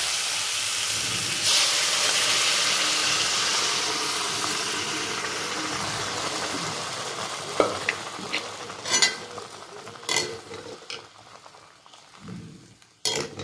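Pressure-cooked mixed beans and their liquid sizzle loudly as they go into hot spiced oil in a wok. The sizzle surges about a second and a half in, then fades steadily as the liquid settles to a simmer. In the second half a metal ladle knocks and scrapes against the pan a few times.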